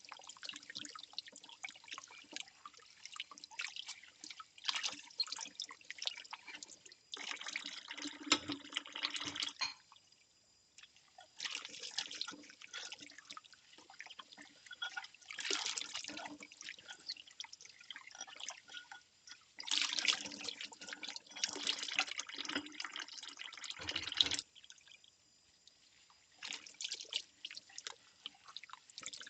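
Bowls being washed by hand at a kitchen sink: water splashing and dripping, with the tap running in two longer, louder spells, about 7 seconds in and again about 20 seconds in.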